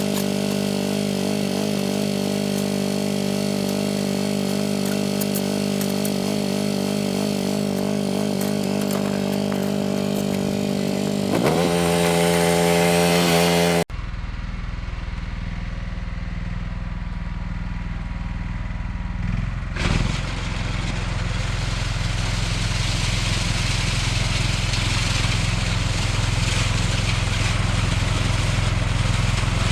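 John Deere 185 lawn tractor's 17-horsepower Kawasaki engine running steadily under snowblower load, its pitch rising about eleven seconds in. After a sudden cut a little under halfway, the engine runs again at a lower note, growing slowly louder.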